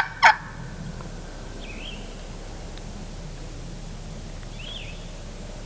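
The last two loud notes of a wild turkey's call right at the start, then quiet woods with a steady low background and two faint, brief songbird chirps, about two and five seconds in.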